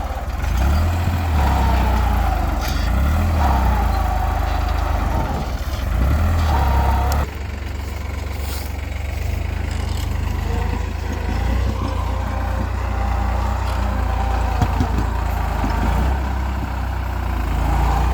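Farm machinery running: a steady engine drone with a wavering whine over it. The sound changes abruptly about seven seconds in to another steady run of machinery.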